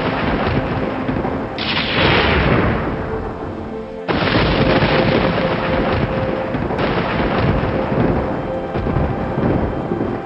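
Thunder rumbling over heavy rain, with a soft music bed of steady tones underneath. The storm sound changes abruptly twice, about one and a half and four seconds in, as if separate recordings were joined.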